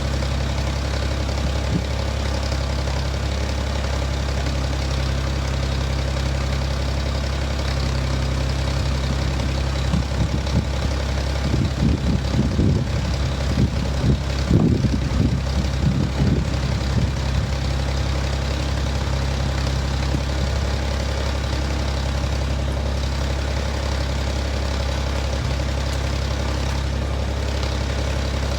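An engine idling steadily, with a cluster of irregular knocks and clanks from about ten to seventeen seconds in.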